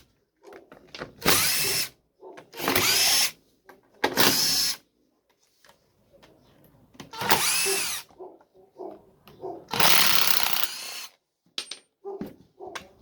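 Large 2-kilowatt angle grinder switched on five times in short runs of about a second each, its motor whining up in pitch at every start, with faint clicks between the runs. The switch is being worked to test its sticking trigger.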